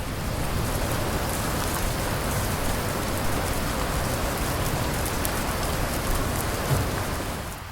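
Steady rain falling, with many individual drop impacts heard in the hiss; it drops off somewhat in loudness near the end.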